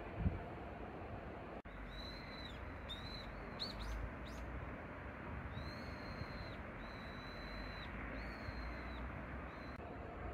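A small bird whistling a run of high, clear notes. First come several short ones, one rising, then three long level notes of about a second each, and a last short one near the end. A steady background hiss runs underneath.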